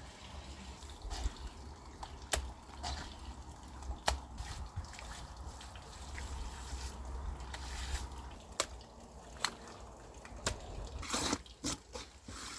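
Wet clay being pressed and smoothed by hand onto a kiln chimney: scattered wet slaps, squelches and taps, with a cluster of them near the end.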